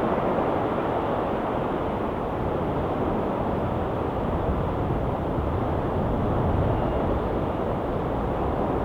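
Ocean surf washing steadily against a rocky shore, a constant low rushing with no distinct breaks.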